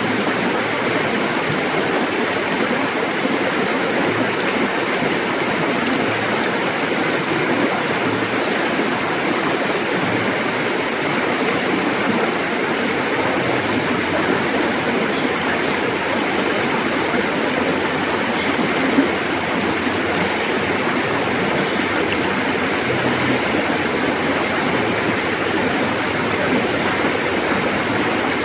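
River water rushing and burbling over rocks, a steady, even rush.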